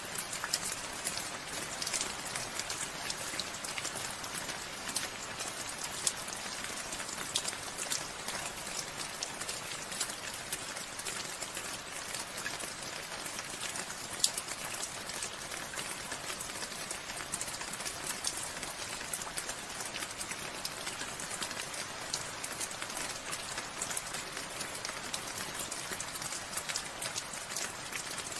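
Steady rain falling, with the patter of individual drops ticking on a surface over an even hiss.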